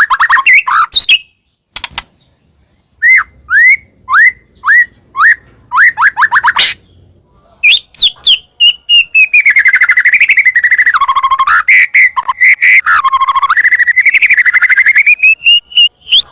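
White-rumped shama in full song. A burst of quick notes is followed by a run of downward-slurred whistles, about two a second. After a pause comes a long, fast, rattling phrase that rises and falls in pitch and dips low twice.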